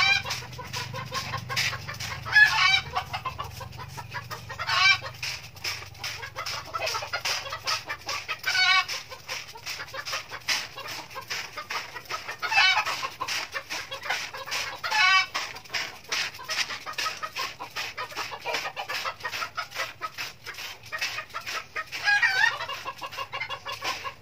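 Birds calling: short wavering calls come every few seconds, over a dense, fast ticking chatter.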